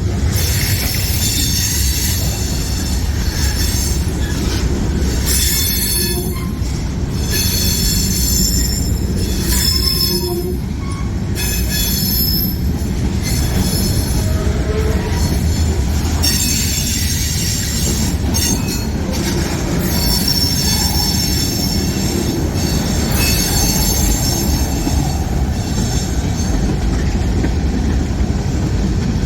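Freight train rolling past with a steady low rumble, its wheels squealing in high-pitched tones that come and go several times.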